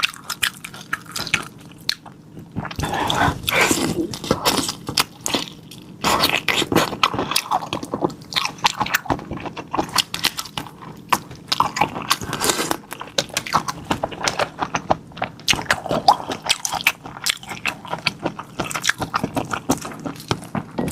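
A person biting and chewing raw marinated black tiger prawns close to the microphone, with many quick, irregular clicks throughout.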